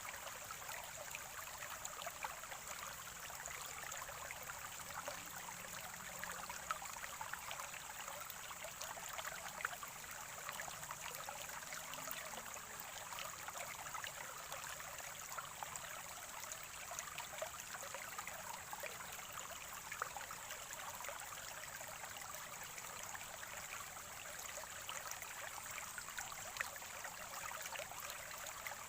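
Natural spring water gurgling and trickling steadily, with a constant patter of small splashes.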